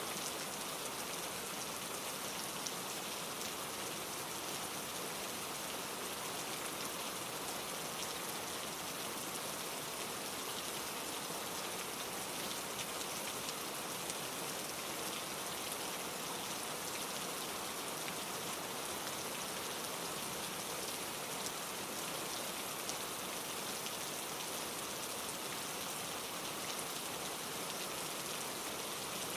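Steady rain falling, a continuous hiss of many fine drops pattering without pause.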